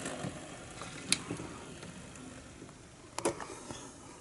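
OO gauge model locomotive running on the layout's track, its motor and wheels whirring and fading as it moves away, with two sharp clicks about one and three seconds in.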